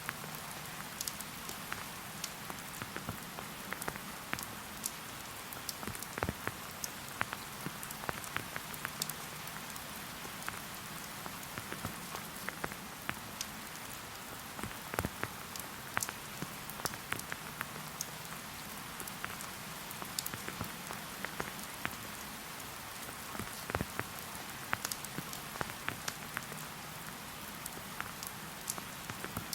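Steady rain falling in a forest: an even hiss of rain with many single drops striking close by, a few at a time, throughout.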